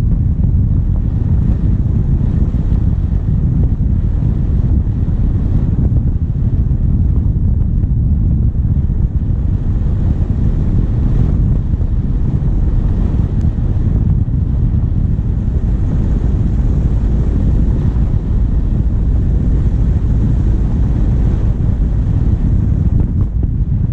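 Steady low wind rumble on a bonnet-mounted GoPro's microphone over the vehicle's diesel engine running as it drives along.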